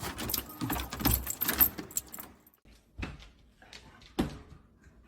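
Jingling and rattling for about two seconds, then two single sharp clicks.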